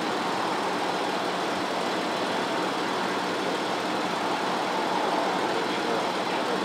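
Police patrol car idling with its heater on: a steady, even hum.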